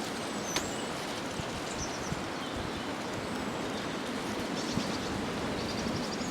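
Steady wind rushing over the microphone, with a few brief high bird chirps about half a second in and again near the end.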